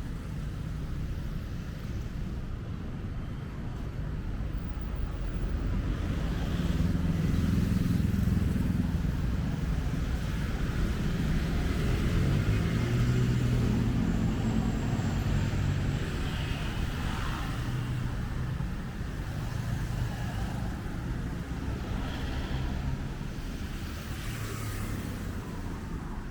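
Street traffic: a motor vehicle's engine rumble with tyre noise, swelling as it passes close in the middle and easing off again.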